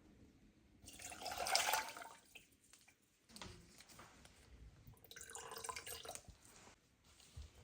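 Water from a kitchen tap running into the sink in two short spells, each lasting about a second and a half.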